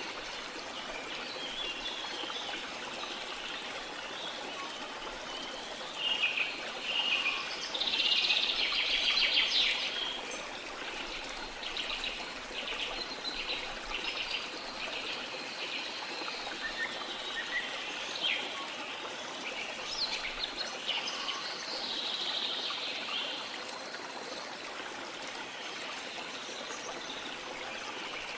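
Steady rush of falling water with birds calling and singing over it, a dense run of high, rapid calls loudest about six to ten seconds in and more scattered calls after.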